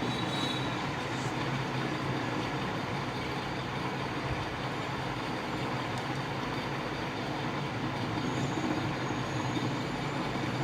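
Steady background hum and hiss with an even level and no distinct events.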